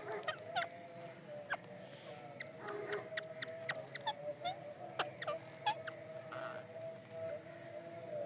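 Rose-ringed parakeet making scattered soft chirps and sharp little clicks, short and irregular, with a faint steady hum behind.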